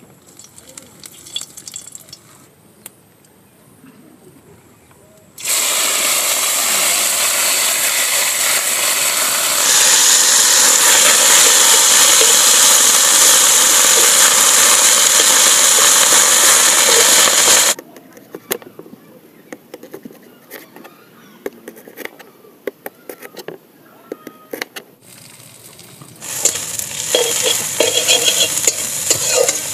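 Fiddlehead ferns and greens frying in hot oil in a steel wok. A loud, even sizzle starts suddenly about five seconds in and drops away abruptly about eighteen seconds in, leaving quieter crackling and the scrape and clink of a metal utensil stirring against the wok. The sizzle rises again near the end as the greens are stirred.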